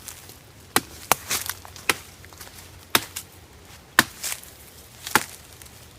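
Dry wood cracking in a run of six sharp snaps, roughly one a second, with softer cracks between them: sticks and branches breaking or being struck in dry brush.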